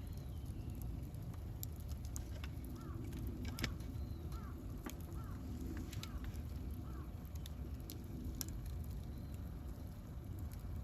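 Wood campfire burning, with irregular crackles and pops over a steady low rumble; the loudest pop comes about three and a half seconds in.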